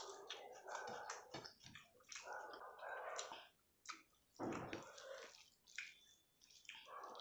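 Close-miked, wet chewing and mouth sounds of rice with dal eaten by hand, mixed with soft squelches of fingers working rice and curry together on the plate.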